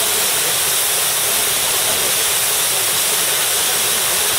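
Steady, loud rush of a waterfall's falling water, unbroken throughout.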